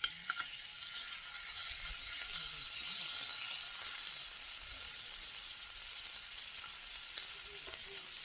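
Steak sizzling as it sears over a campfire: a steady frying hiss that starts suddenly with a click, is loudest a few seconds in and then eases slightly.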